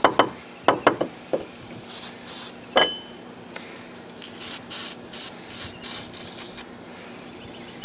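Aerosol brake cleaner sprayed in several short hissing bursts, with a few knocks and a sharp metal clink about three seconds in.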